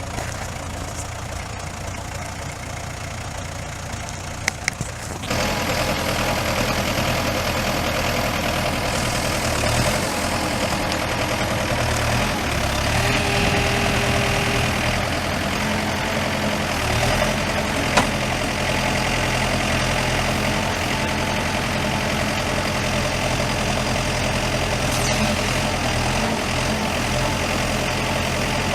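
Diesel engine of a 2006 Terex 760B backhoe loader running steadily, turning suddenly louder with a broader hiss about five seconds in and staying up. A few sharp clicks come just before the step up, and there is one more about two-thirds of the way through.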